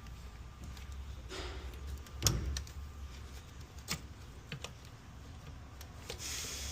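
A few sharp clicks and knocks over a low, steady hum, the loudest about two seconds in.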